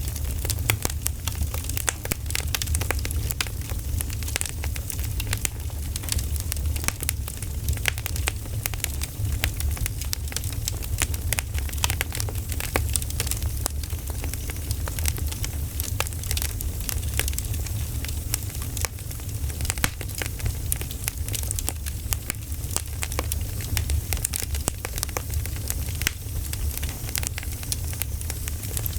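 Campfire crackling: wood burning with frequent sharp pops and snaps over a steady low rumble.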